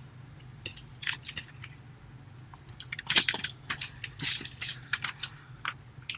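Sheet of origami paper being folded and its creases pressed sharp by hand: a run of crisp rustles and crackles, sparse at first and busiest from about three seconds in.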